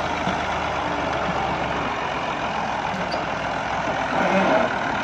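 A tractor's diesel engine running while a man tries the tractor out. Its low throb is strong for about the first second and a half, then weakens.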